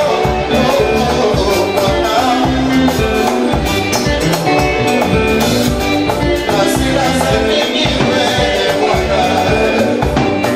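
Live band playing upbeat dance music with a steady drum beat and bass.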